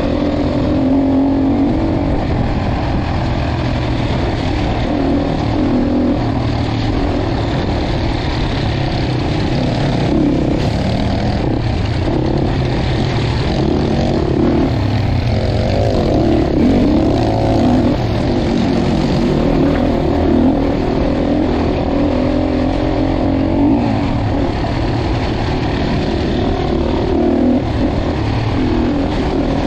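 Dirt bike engine running under load, its pitch rising and falling continually as the throttle is opened and closed.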